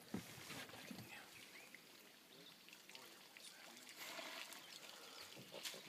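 Faint outdoor quiet: scattered small bird calls over a low hiss.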